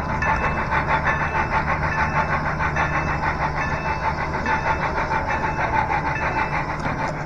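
A model train runs along the layout track with a steady hum and a quick, rhythmic clicking and pulsing.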